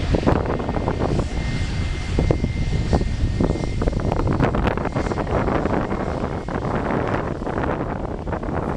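Dash 8 turboprop airliner's engines and propellers running, heard through heavy gusty wind buffeting the microphone, with a thin steady whine from about a second in to about four seconds in.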